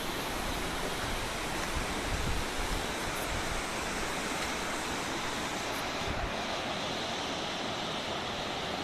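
Steady rush of fast-flowing mountain river water, with wind buffeting the microphone in low gusts.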